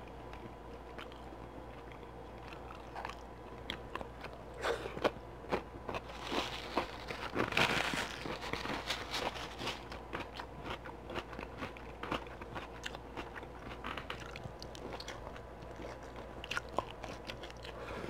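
Close-miked eating of barbecue-sauced beef ribs: wet chewing and biting with many small smacking clicks, a louder run of bites and tearing about six to nine seconds in.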